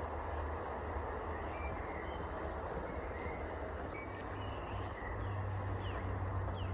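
Outdoor woodland ambience: a steady rustling noise with a low rumble underneath, and a few faint, short bird chirps scattered through it.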